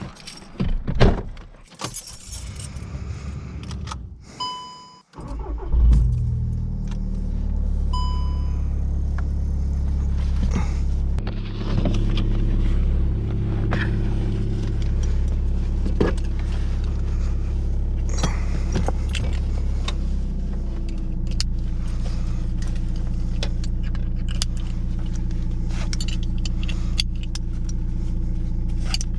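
Clicks and knocks of keys and the car's interior, then the VW Mk6 GTD's tuned 2.0 TDI diesel engine starts about five seconds in and settles into a steady idle through a custom stainless exhaust with the DPF deleted. Two short beeps sound around the start.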